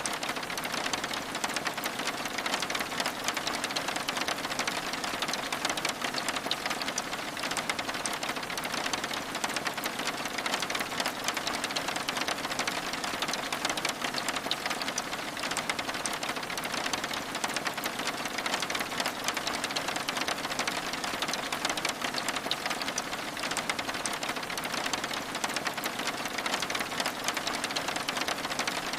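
Steady rain: a dense, even patter of countless drops over a hiss, with no change in strength.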